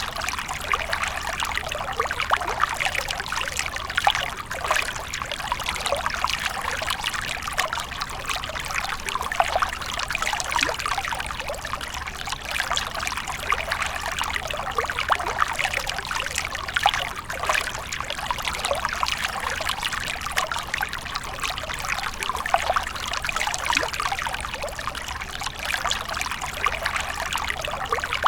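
Water fountain splashing and trickling steadily, a continuous bright patter of falling water.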